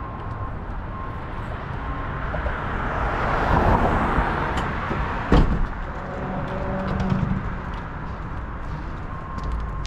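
Road traffic: a vehicle passes, swelling and fading, with a single sharp knock about five seconds in, then an engine's note rising briefly.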